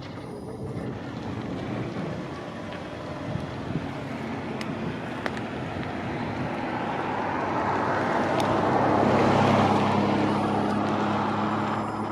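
A motor vehicle passing close by outdoors: its road and engine noise builds up over several seconds, is loudest about nine to ten seconds in, then eases off, over a light wind rush on the microphone.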